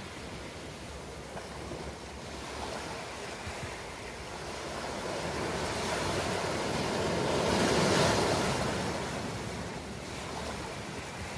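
Ocean waves breaking and washing ashore, one wave swelling to a crash about eight seconds in and then receding into a steady wash of surf.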